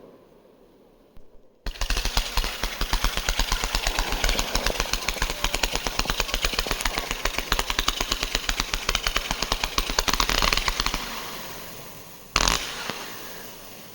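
Fireworks going off in a long rapid-fire string of sharp bangs, many a second, which fades out, followed by one single louder firework bang near the end.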